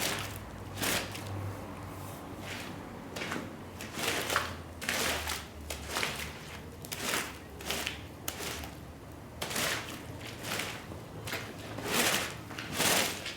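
Repeated short rasping strokes of a cleaning tool worked across a wet, mud-caked shag rug, about one to two strokes a second at an uneven pace, over a faint low hum.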